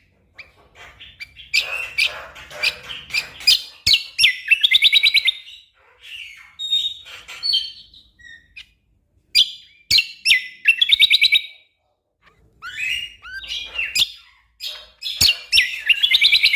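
Cucak kombo (kecial kombok) singing a dense, rapid-fire song of sharp chirps and fast trills of evenly repeated notes, with brief pauses between phrases.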